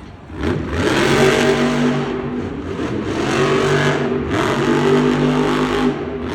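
Monster truck's supercharged V8 engine revving hard in surges, the throttle easing off briefly twice.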